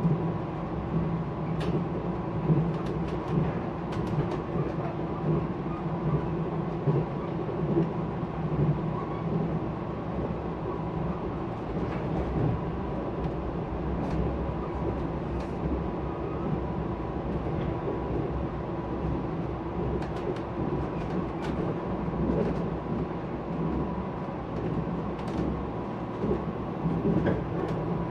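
Mugunghwa passenger train running along the track, heard from inside the carriage: a steady rumble with a faint high steady hum and a few light clicks here and there.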